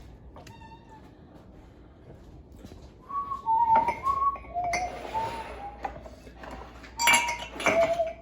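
Dishes and glasses clinking as they are handled and put away, with the loudest clinks about 4 seconds in and twice near the end. Over them someone whistles a few short notes of a tune.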